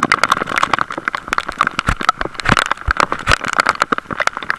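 Heavy rain hitting close to the microphone: a dense, irregular crackle of drop impacts, with a few low thumps a little past halfway.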